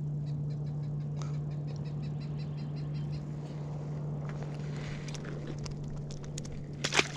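A bird calling in a quick series of short, even notes for about three seconds, over a steady low hum, with a sharp click near the end.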